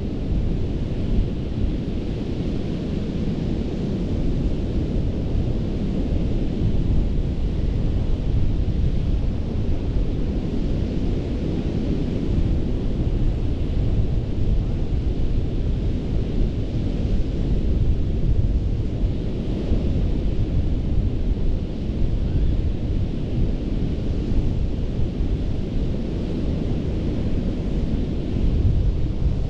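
Ocean surf breaking on a sandy beach, a continuous low rumble of waves with wind buffeting the microphone.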